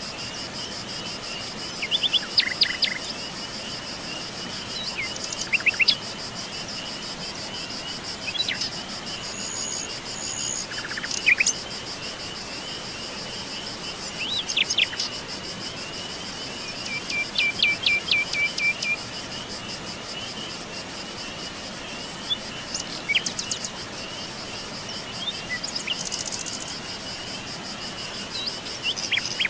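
Songbirds chirping and calling in short, scattered phrases, one of them a quick run of repeated notes, over a steady, high-pitched insect trill like crickets.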